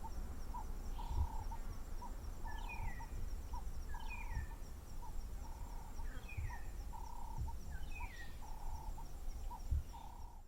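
Dusk bush chorus: a steady run of short and longer hooting notes, a falling whistled bird call repeated every couple of seconds, and a high insect trill, over a low rumble.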